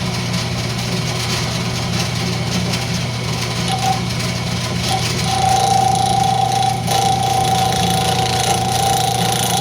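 Wood lathe running with a steady low hum while a turning tool cuts a rosewood pull. A steady whine comes in about five seconds in.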